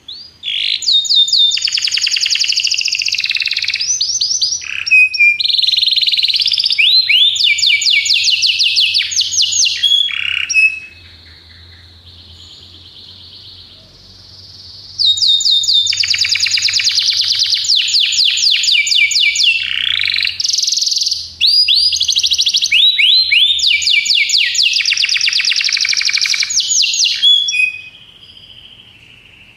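Domestic canary singing: two long song phrases, each about ten seconds of fast, high trills of rapidly repeated notes that change from one trill type to the next, separated by a few seconds of quieter, softer warbling.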